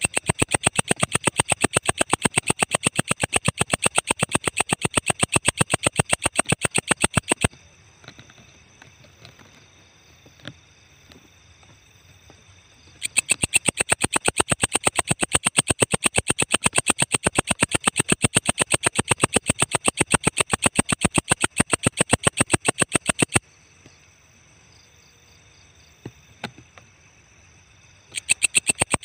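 Walang ecek insect calling in a fast, even run of sharp clicks. The call stops about a quarter of the way in, starts again after several seconds, stops once more, and resumes near the end.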